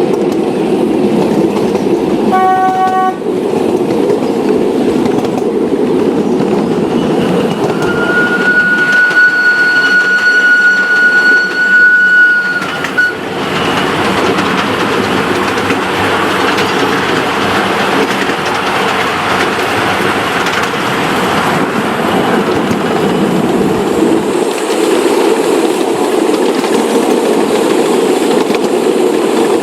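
Model train running steadily along the track with a clickety-clack rumble. It gives a short toot about two seconds in, and a long, high, steady toot from about eight to thirteen seconds.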